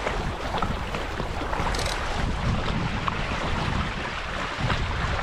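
Wind buffeting the microphone in gusts, over water rushing and splashing past the hulls of a Hobie 16 catamaran under sail, with a brief hiss of spray about two seconds in.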